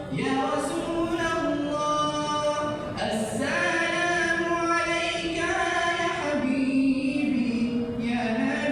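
Unaccompanied vocal singing: a voice holding long, drawn-out notes that glide smoothly between pitches, with no instruments heard.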